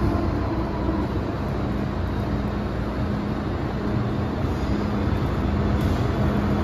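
MTR M-train car running at steady speed, heard inside the car: an even rumble of wheels and running gear with a steady low hum underneath.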